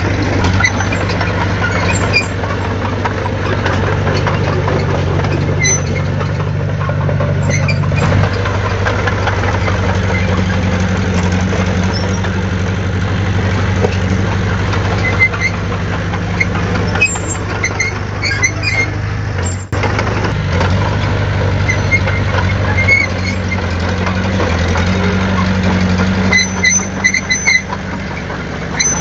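Heavy diesel engine of earthmoving machinery running steadily, its note stepping up and down as the load changes, with faint scattered clicks and squeaks over it.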